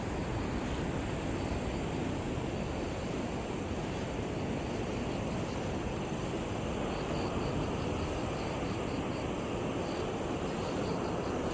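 Steady rush of ocean waves and wind. From about halfway through, faint insect chirping comes in as a quick regular pulse.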